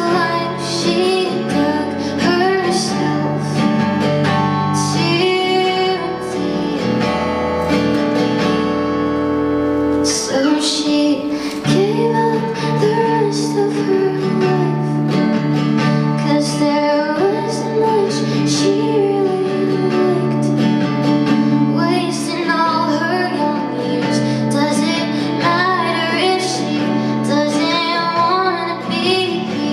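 Live music: a woman singing a slow, sad pop song over guitar accompaniment.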